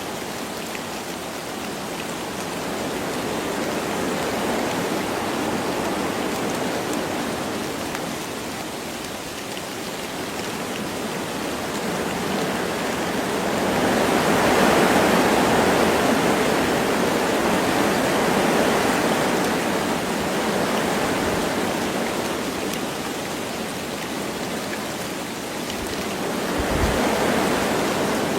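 Wind blowing through forest trees with light rain falling. The rush swells into a stronger gust for several seconds about halfway through, and again briefly near the end.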